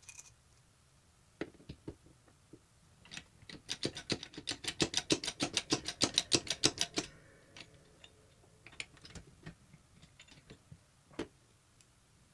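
Hand work on metal parts: scattered sharp clicks and taps, then a fast, even run of clicks, about six a second for some three seconds in the middle, before scattered taps resume.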